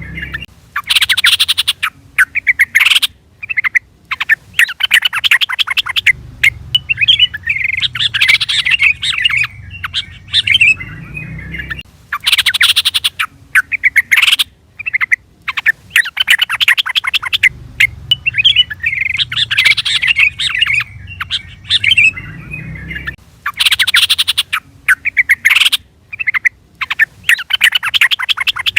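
Yellow-vented bulbul (trucukan) calls: loud bursts of rapid, bubbling chatter alternating with shorter warbling phrases. The pattern repeats about every 11 seconds, as in a looped lure recording.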